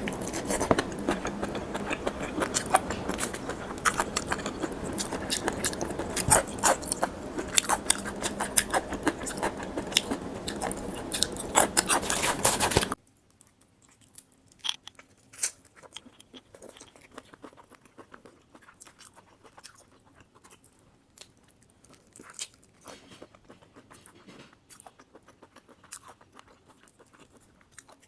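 Close-miked chewing and biting of raw shrimp, many short wet clicks and smacks. About halfway through, a steady background hiss cuts off suddenly and the chewing goes on much quieter and sparser.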